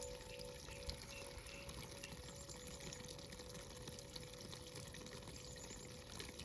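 Faint, steady hiss of running water, with a thin steady hum under it.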